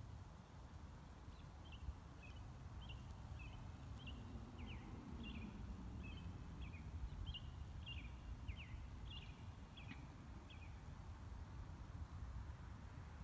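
A bird chirping in quick series of short high notes, stopping about ten seconds in, over a low steady rumble of background noise.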